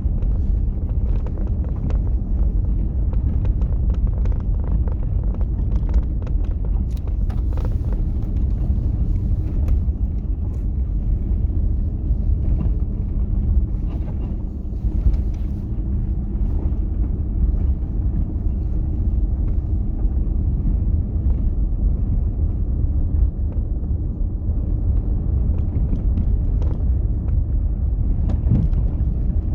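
Steady low rumble of a vehicle driving, with road noise.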